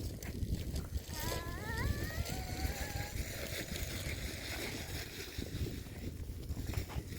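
Steady low rumble of wind buffeting the microphone, with a brief high rising call about a second in.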